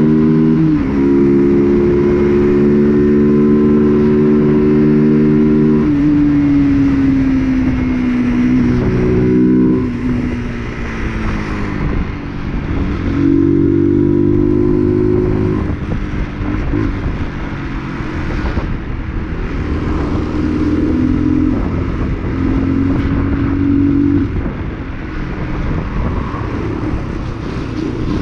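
UM RS 125's single-cylinder 125 cc four-stroke engine running. Its note holds at a steady pitch for a few seconds at a time, then falls and rises again several times as the throttle changes.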